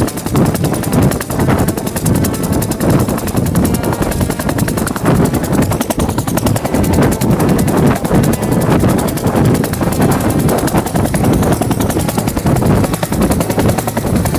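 Bell 204 (UH-1 Huey) helicopter in flight: the rapid, steady chop of its two-bladed main rotor over continuous engine noise.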